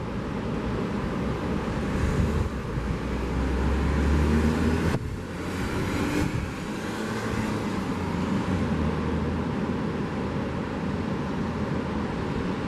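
A car passing on the seafront road, swelling to its loudest about four to five seconds in, over the steady wash of the sea.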